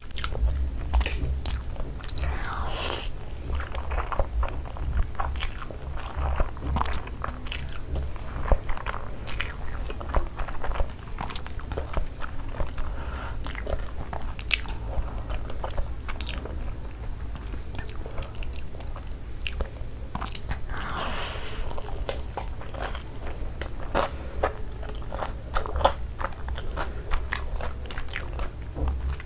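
Close-miked eating: chewing and biting with wet mouth clicks and crunches, as masala Maggi noodles and a crunchy Cheetos-crusted cheese ball are eaten, over a steady low hum.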